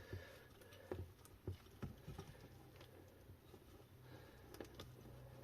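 Near silence with a few faint, scattered clicks and taps of small parts being handled.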